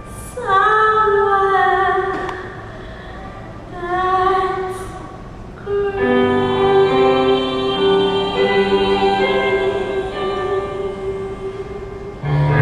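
Live musical-theatre singing with accompaniment: two short sung phrases with wavering held notes, then from about six seconds a long chord held by several voices together.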